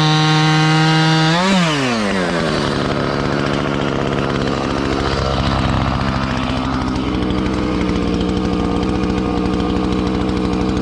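Chainsaw running at full throttle, its pitch dropping sharply about a second and a half in as it bites into the log, then cutting steadily under load.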